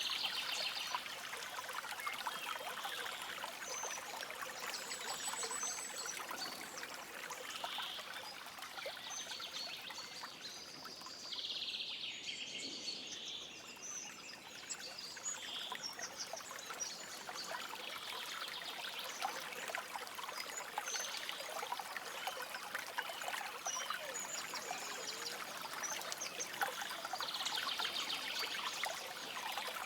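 A stream flowing steadily over stones, with small songbirds chirping in short phrases every few seconds.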